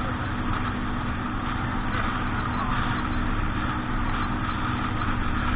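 A boat's engine running steadily, a constant low hum under a steady rushing noise.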